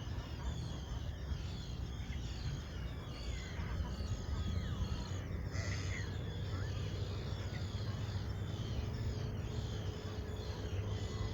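Several birds chirping and calling again and again, with one louder harsh call about six seconds in, over a steady low rumble.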